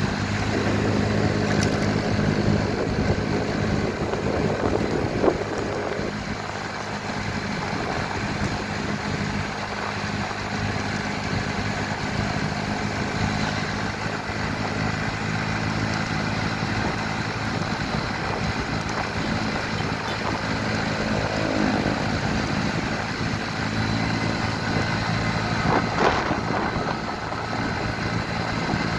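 Motorcycle engine running at a steady pitch while riding, over a constant rush of noise, with a brief knock about five seconds in and another near the end.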